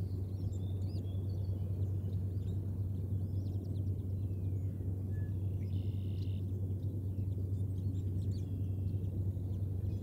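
Steady low hum, with many faint, short, high bird chirps scattered through it and a brief buzzy call a little past the middle.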